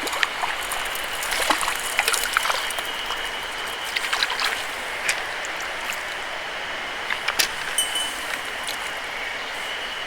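Mountain stream rushing steadily, with scattered sharp clicks and taps over it and a faint steady high tone.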